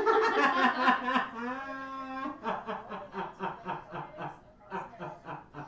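A person laughing hard: a loud drawn-out burst at first, then a run of quieter, rhythmic chuckles that fade out.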